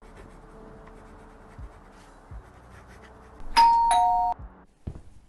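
Two-tone doorbell chime ringing once, "ding-dong": a higher note then a lower one, about three and a half seconds in, over faint room hum.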